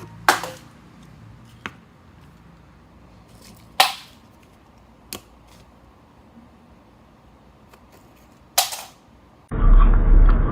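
A few sharp knocks or clacks, spaced one to four seconds apart, over a quiet background. Near the end a louder noise with a low rumble cuts in suddenly.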